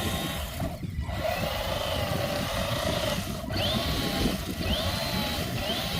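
Electric motor and gears of a radio-controlled truck whining, the pitch rising and falling as the throttle is worked, with brief let-offs about a second in and again just past the middle, over a low wind rumble.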